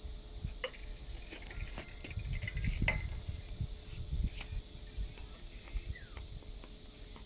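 Steady high-pitched insect chirring, with scattered light clicks and irregular low rumbles.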